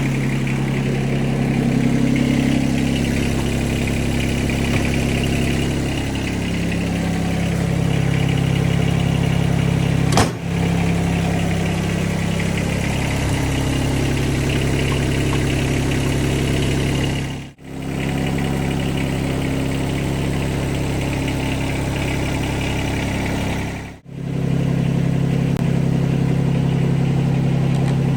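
John Deere 2320 compact tractor's three-cylinder diesel running, its pitch shifting up and down a few times as it works. There is a sharp click about ten seconds in, and the sound drops out briefly twice in the second half.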